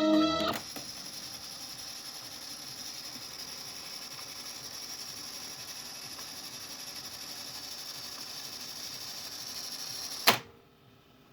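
Steady hiss with a thin high whine from the SHARP 5P-37G's speaker, with no station playing. About ten seconds in, one sharp click cuts it off.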